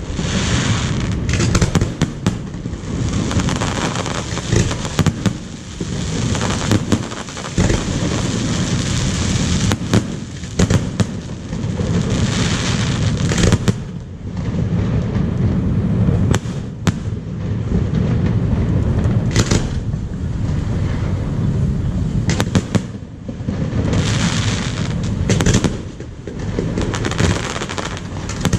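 Aerial fireworks display: a rapid, continuous barrage of booming shell bursts and sharp bangs, with dense crackling between them.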